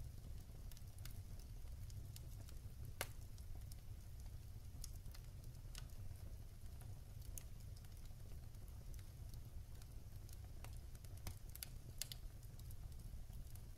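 Wood fire in a fireplace crackling faintly, with irregular small pops and a sharper pop about three seconds in, over a low steady rumble.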